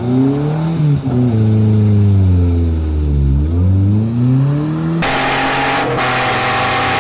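Car engine revving, its note rising and falling several times as the throttle is worked. About five seconds in the sound changes abruptly to a steadier, rougher running engine with more hiss.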